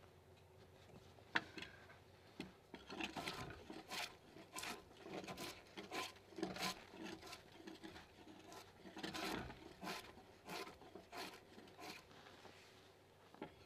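Bark being shaved off a log timber with a hand-held edge tool: a run of short scraping strokes on the wood, about two a second, with a brief pause midway.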